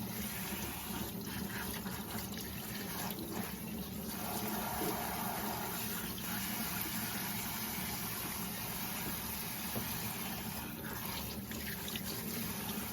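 A steady rushing noise with a low hum underneath, starting and stopping abruptly.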